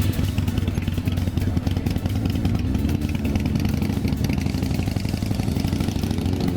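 Motorcycle engine running steadily at idle, a fast, even low-pitched pulsing.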